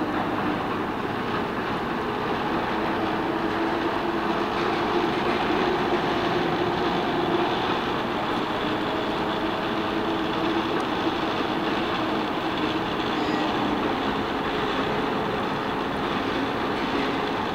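Passenger train rolling past at steady speed, its wheels running on the rails, with a steady hum underneath.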